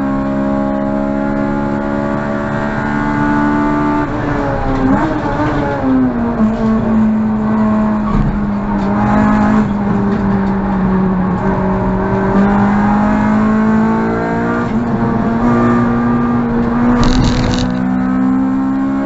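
Honda Civic EG6's 1.6-litre B16A four-cylinder engine running hard at high revs. About four seconds in the pitch drops and falls for a couple of seconds, as when braking and changing down, then it holds and climbs slowly again under acceleration.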